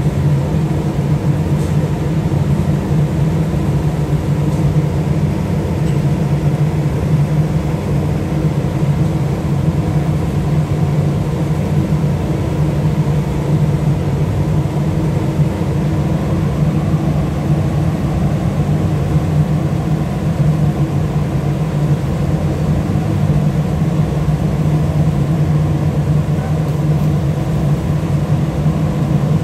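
Cargo ship's engine running steadily with a deep, even hum while driving the propeller in a propeller test.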